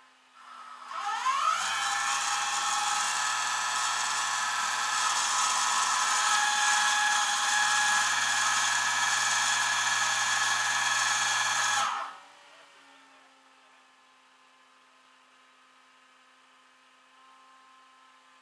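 A small motor whirs up to speed with a rising whine, runs steadily for about ten seconds, then stops suddenly.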